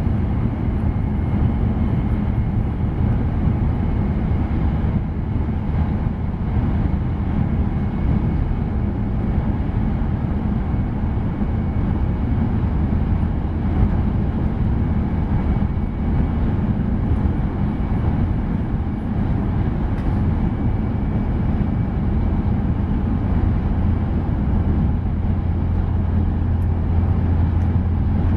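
Steady low rumble and rush of a Tohoku Shinkansen train running at speed, heard inside the passenger cabin, with a faint steady high whine that fades out about halfway through.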